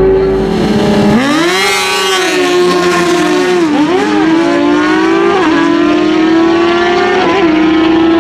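Naturally aspirated stock drag-racing motorcycle engines running at high revs, a steady held note at first, then the pitch dips and climbs again several times, with a short step about five and a half seconds in and another near the end.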